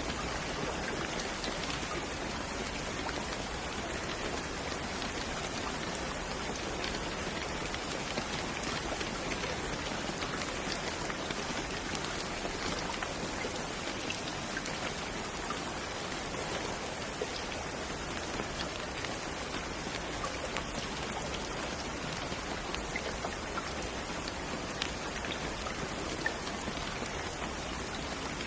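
Steady rain falling on a surface, a dense even hiss of many small drop impacts with no thunder.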